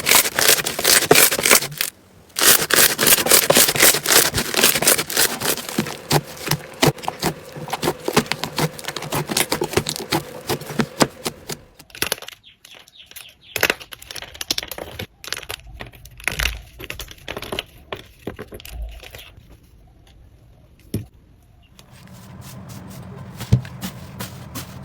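Slime being squeezed and stretched by hand, giving a dense run of crackling and popping clicks. The clicks are loud at first, with a short break about two seconds in, then turn sparser and quieter about halfway through.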